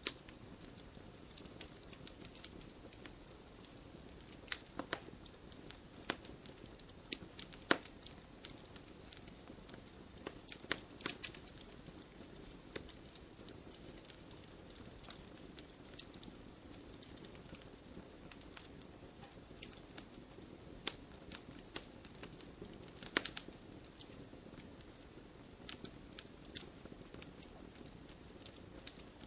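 Campfire crackling: irregular sharp pops and snaps over a steady soft hiss of the burning fire, with a few louder snaps clustered together midway.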